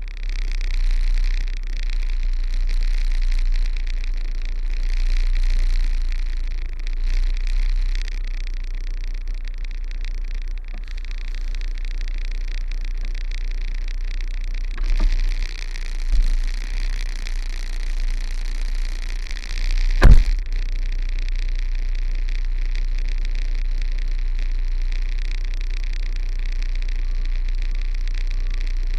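Truck's diesel engine running low and steady while reversing, with a few knocks about halfway through and one sharp bang about twenty seconds in.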